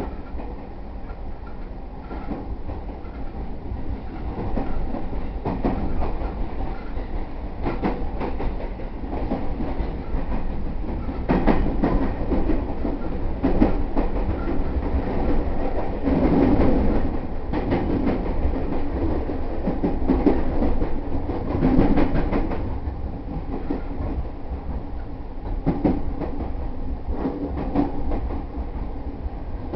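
Electric commuter train running on rails, with a steady low rumble and many sharp wheel clacks over rail joints and points, growing louder from about four seconds in.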